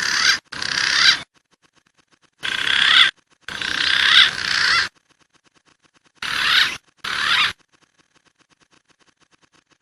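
Recorded wild pigeon calls from a bird-lure track: six short bursts of wavering whistled calling, coming in three pairs, with a faint rapid ticking in the gaps between them.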